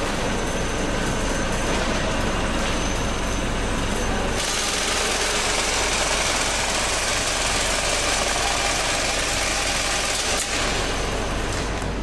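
Flour filling and bagging machine running steadily. About four seconds in, a louder hiss takes over, and a single sharp click sounds near the end.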